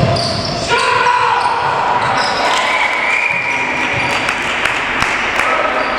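Sound of an indoor korfball game in a sports hall: a few sharp knocks from the ball and players' feet, with players' calls over the echoing hall noise.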